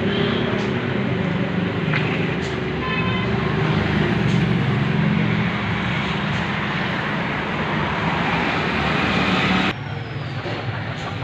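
Tractor engine running steadily, then dropping suddenly to a quieter background near the end.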